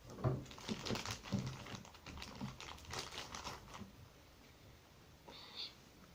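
Slime being handled: a run of irregular crinkling and clicking for about four seconds, then quieter, with a short rasp near the end.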